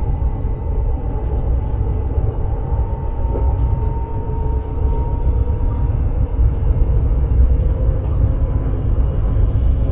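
Electric sprinter train running along the line, heard from inside the driver's cab: a steady low rumble of wheels on track, with a faint whine that rises slightly a few seconds in.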